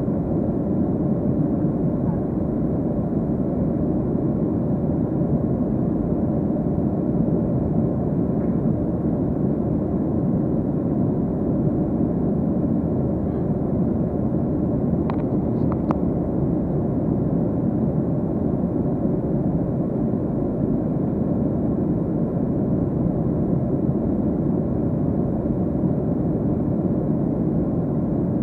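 Steady cabin noise inside a Boeing 737-300 in flight: an even rumble and rush of the CFM56 engines and airflow, with brief faint ticks about halfway through.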